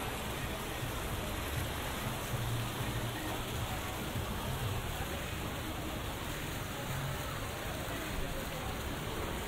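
Steady rain falling and spattering on the pavement, an even hiss with people's voices faintly in the background.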